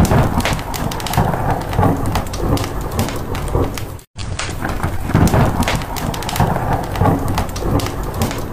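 Rain and rolling thunder mixed with fireplace crackling, dense with sharp clicks. The sound cuts out completely for an instant about four seconds in.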